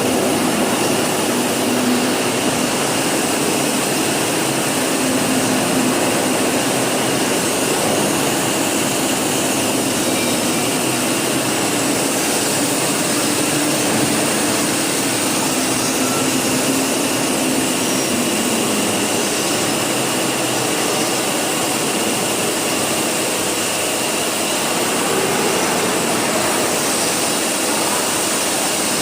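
Steady machine noise from a running CNC press brake and bending-robot cell: an even hiss with a low wavering hum and a faint high whine, without distinct strikes.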